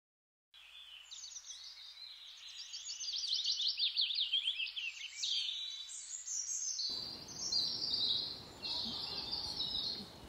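Birds chirping, a dense run of quick, high twittering notes. About seven seconds in, a low rumbling noise joins underneath.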